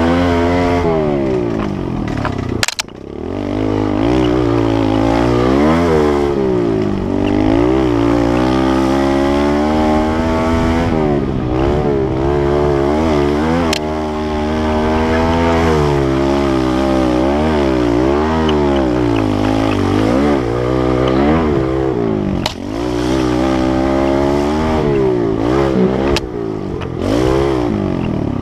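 Kawasaki KLX110L pit bike's small single-cylinder four-stroke engine revving up and down again and again as it is ridden, with a few sharp clicks.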